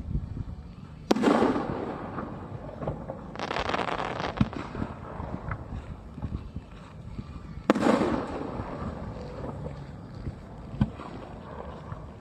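Aerial fireworks bursting: two loud booms with long echoing tails, one about a second in and one past the middle, and a stretch of crackling between them.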